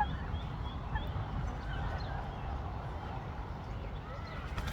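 Ducklings peeping softly now and then over a steady low rumble.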